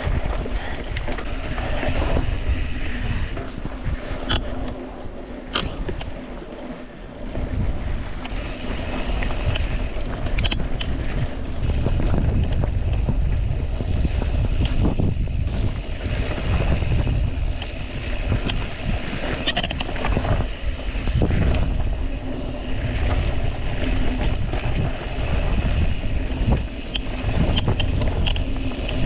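Wind buffeting the microphone during a mountain-bike ride, with the tyres rolling over a rocky trail. Scattered sharp clicks and rattles come from the bike.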